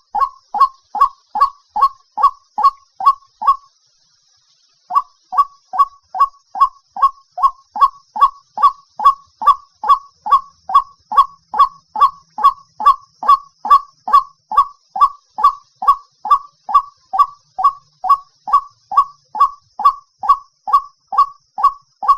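White-breasted waterhen calling, a loud, rapid series of short 'wak' notes at a little over two a second. The series breaks off for about a second near four seconds in, then resumes and runs on steadily.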